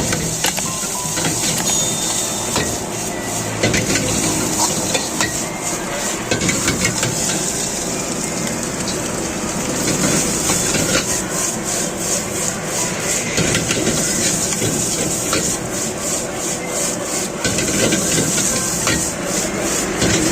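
Chicken fried rice cooking in a wok: a steady sizzle, with a metal ladle repeatedly scraping and clanking against the pan as the rice is stirred and tossed.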